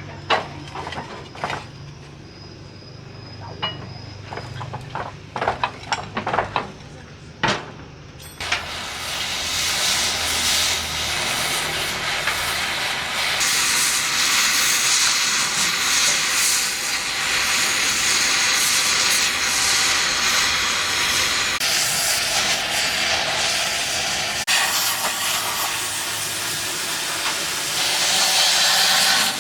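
Sharp clicks and knocks over a low hum. Then, about eight seconds in, a gas cutting torch's loud, steady hiss takes over.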